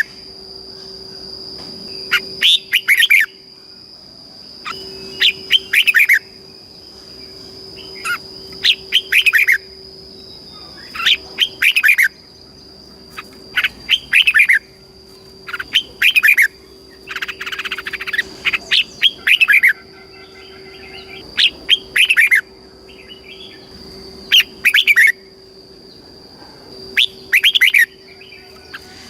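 Red-whiskered bulbul singing: loud short phrases of several quick falling notes, repeated about every two to three seconds, over a steady high-pitched whine.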